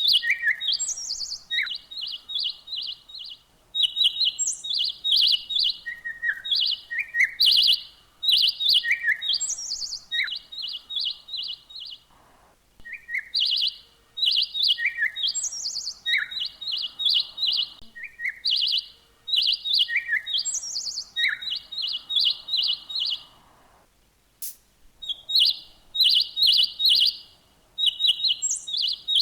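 Songbirds chirping: quick runs of short, high chirps with lower and higher single notes mixed in, broken by two brief pauses.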